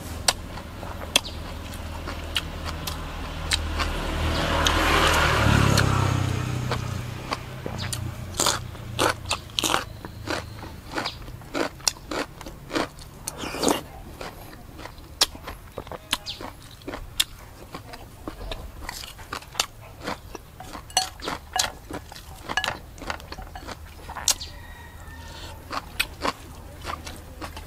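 Close-up crunching and chewing of raw vegetables, raw long beans among them, with many sharp crunches. A rumbling noise swells and fades about four to six seconds in.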